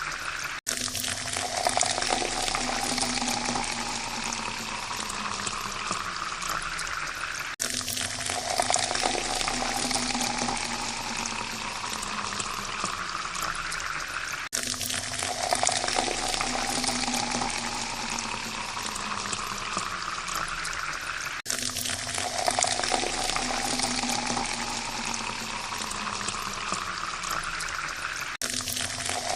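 Water pouring into a glass, the tone rising slowly as the glass fills. The pour repeats about every seven seconds, each time after a brief break.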